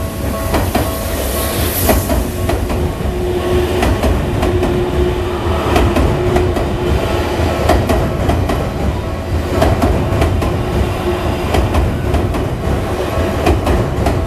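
Tokyu Toyoko Line electric train running past at close range, its wheels clicking over the rail joints, with a steady whine in the middle of the pass. A level-crossing warning bell rings repeatedly.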